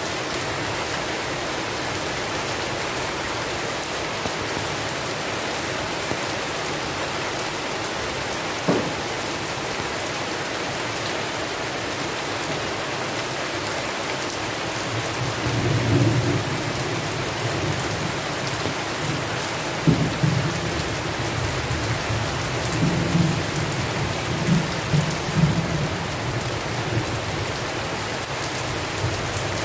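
Steady heavy rain hiss throughout, with thunder: a sharp crack about a third of the way in, then low rolling rumbles through the second half, broken by a few louder cracks.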